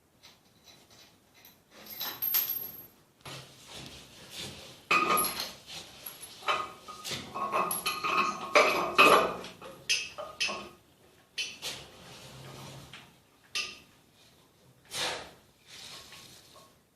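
Irregular knocking and clinking of tools and fittings on a small bathroom basin and its plumbing, busiest around the middle, with a few short ringing clinks.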